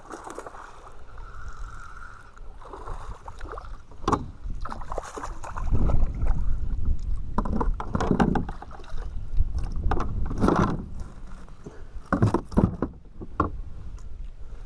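Water splashing and knocks against a kayak's plastic hull as a hooked bass is brought alongside and landed, with a low rumble of wind on the microphone from about a third of the way in.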